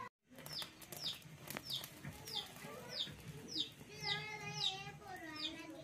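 A bird repeating a short, high chirp that falls in pitch, about every half second, with a longer wavering call about four seconds in.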